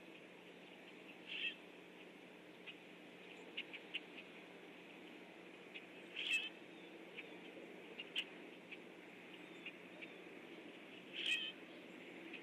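Unidentified wild birds calling: many short, high chips scattered throughout, with a louder, harsher call three times, about five seconds apart.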